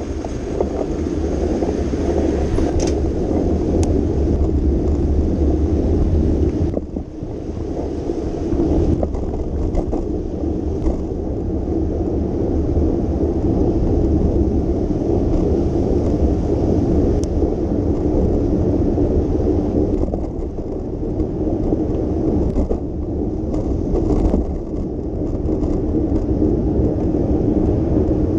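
Steady low rumble of a bicycle ride: wind on the microphone and road noise, dipping briefly about seven seconds in.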